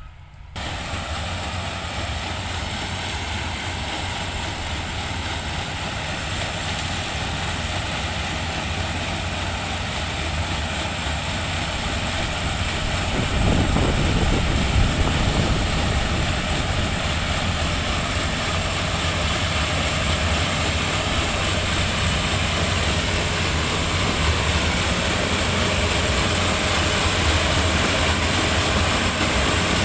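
Sugarcane harvester's diesel engine running under load as it cuts cane: a loud, steady mechanical din with a deep rumble and a wide hiss. It grows louder about 13 seconds in.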